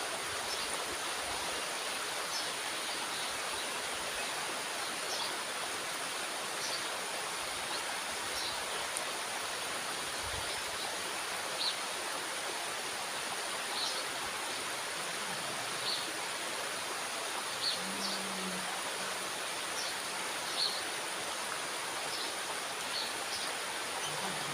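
Water rushing steadily from a dam's sluice gate, with short high chirps every second or two.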